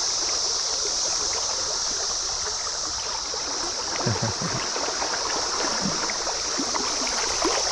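Flowing stream water running steadily, under a constant high-pitched drone from a periodical cicada chorus of Brood XIV.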